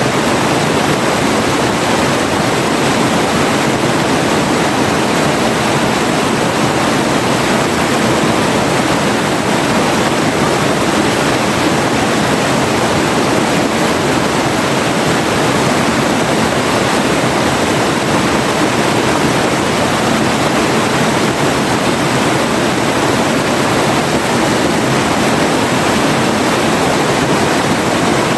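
River water flowing and rushing steadily, an even unbroken wash of sound.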